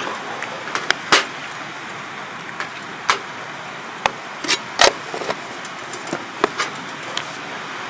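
Wood campfire crackling: irregular sharp pops and knocks over a steady hiss.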